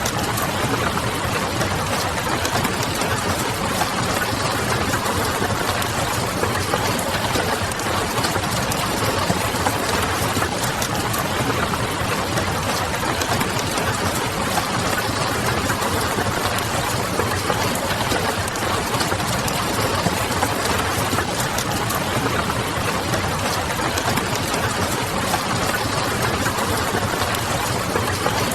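Steady rain on a window, an even hiss, with faint scattered crackles of a wood fire.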